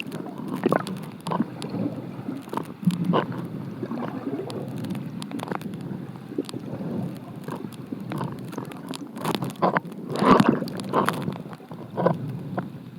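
Mountain stream water heard with the microphone underwater: a muffled, steady rush with irregular pops and clicks, and a louder cluster of them about ten seconds in.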